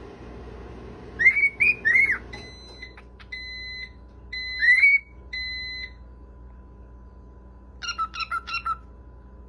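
High whistling calls: a few quick rising chirps, then four short flat beep-like whistles, then a fast run of about six chirps near the end.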